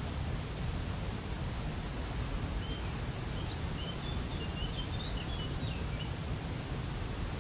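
Steady rushing of a waterfall, with a small bird singing a short, quick series of high chirps over it from about two and a half to six seconds in.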